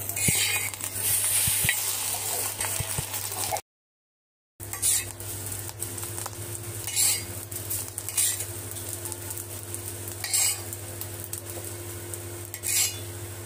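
Egg omelettes sizzling in oil on a black iron pan, with a metal spatula scraping across the pan every second or two. The sound drops out completely for about a second near the start.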